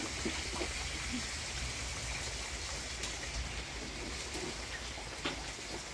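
Steady rain falling, an even hiss with a few separate louder drops striking nearby.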